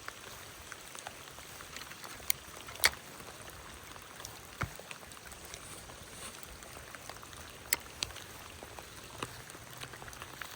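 Steady hiss of a flowing creek and falling rain. A few sharp taps are scattered through it, the loudest a little under three seconds in.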